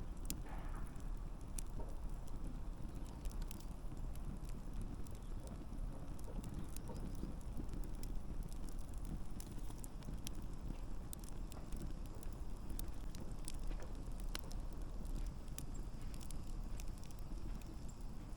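Wood campfire burning: a steady low rumble of flames with irregular sharp crackles and pops from the burning logs.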